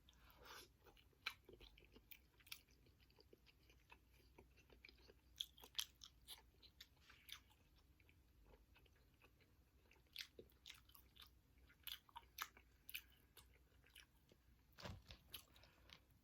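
Close-up chewing and biting of seafood from a spicy seafood boil, heard as irregular wet smacks and crisp little clicks, quiet overall with a louder cluster near the end.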